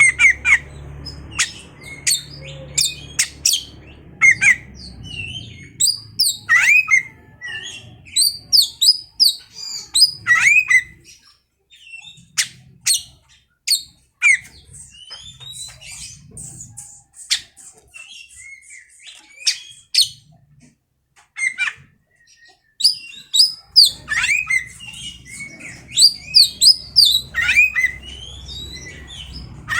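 Oriental magpie-robin (kacer) singing a fast, varied song of sharp whistles, chirps and harsh rasping notes in bursts with short pauses. A low hum runs underneath near the start and again near the end.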